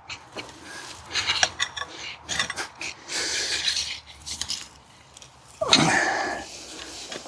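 Potato harvesting by hand: scattered knocks and clinks of potatoes and tools, scraping in the soil, and a heavy breath near the end.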